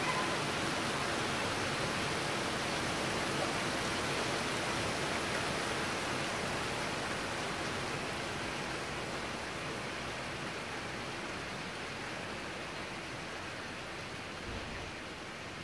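Heavy rain pouring down in a thunderstorm downpour: a dense, steady hiss that gradually grows a little quieter.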